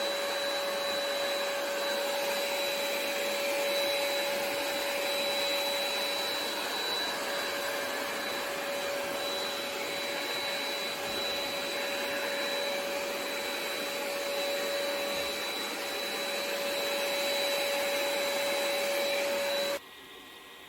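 ECOVACS DEEBOT X9 Pro Omni robot vacuum running with a steady whir and a high steady whine, then cutting off suddenly just before the end.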